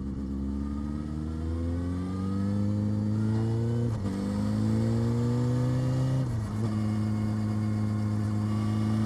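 Motorcycle engine pulling hard under acceleration, its pitch climbing, then dropping sharply twice, about four and six seconds in, as the rider shifts up a gear, before settling into a steady cruise.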